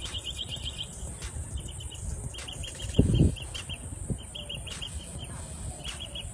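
A bird chirping in quick repeated runs of short, high notes, several runs in a row, over a steady high hiss. A dull low thump about three seconds in.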